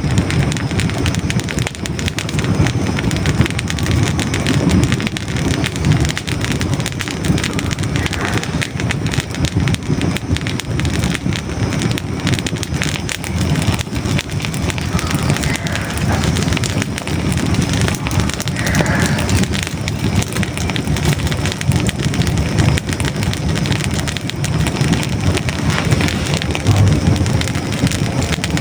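Hardwood logs burning in a fireplace: a dense, irregular run of small crackles and pops over a steady low rumble of flame.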